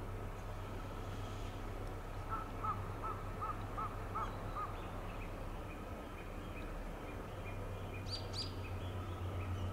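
Freight train of Taki 1000 oil tank wagons rolling slowly past with a steady low rumble. About two seconds in, a bird gives about six short calls in quick succession, and a few sharper, higher chirps come near the end.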